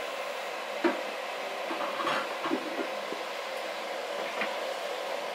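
Chopped bottle gourd, brinjal, tomato and onion sizzling steadily in hot oil in an aluminium pot, with a few light clicks of a steel spoon against the pot.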